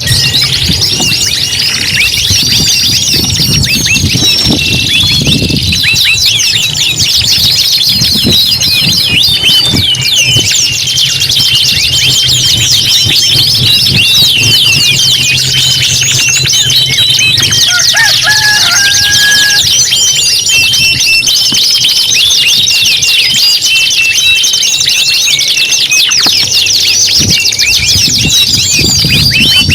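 Several domestic canaries singing at once in a dense, unbroken chorus of rapid chirps and rolling trills, with a faint low hum underneath.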